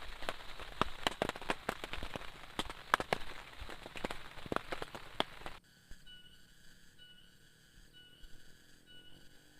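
Heavy rain falling, with many large drops striking hard with sharp taps. It cuts off suddenly about halfway through, leaving only a faint, short, high-pitched chirp repeating about every 0.7 seconds.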